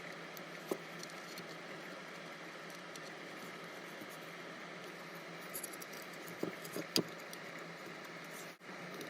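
Small clicks and light rattles of wires and plastic housing parts being handled, over a steady background hiss; one click just under a second in and a cluster of them about six to seven seconds in.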